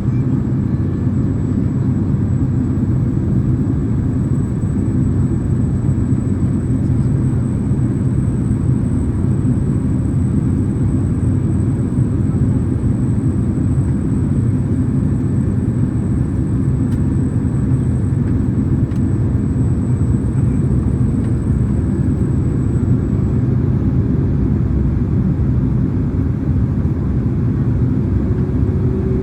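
Boeing 767-300ER cabin noise in flight: a steady, deep roar of engines and airflow heard from a rear cabin seat. A faint high whine sits over it and stops a little over twenty seconds in.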